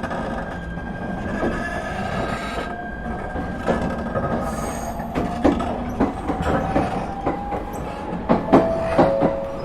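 ET127 series electric train with Toyo IGBT-VVVF traction equipment running, heard from inside the car. A steady whine has one tone rising slowly in pitch over the second half, above a continuous rumble. Irregular clicks and knocks come from the wheels on the track.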